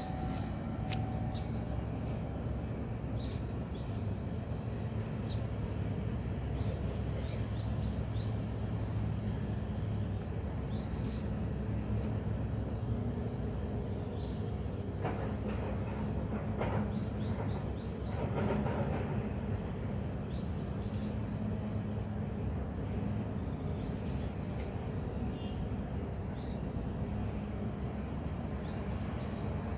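Insects chirping in short, repeated high chirps over a steady low background hum, with a few brief clicks and rustles a little past halfway.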